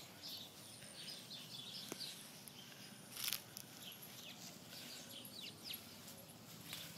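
Faint outdoor back-yard ambience with small birds chirping in short, repeated downward-sweeping notes, and a brief noise about three seconds in.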